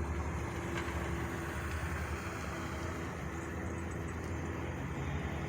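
Steady low rumble of a vehicle engine running, with no sharp events.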